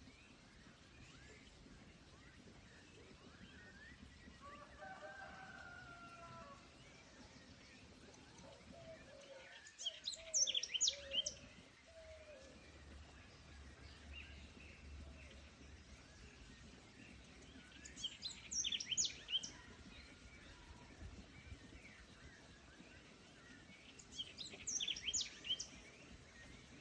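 Birds singing in a forest. A songbird gives three short bursts of quick high chirps, roughly every seven or eight seconds. A lower, drawn-out call sounds about five seconds in and again around the first burst, over a faint steady background.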